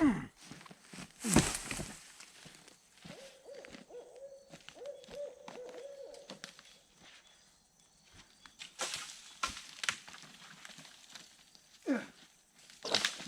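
An owl hooting, a wavering run of low hoots between about three and seven seconds in. A few loud short sounds with a falling pitch stand out near the start, about a second later, and near the end.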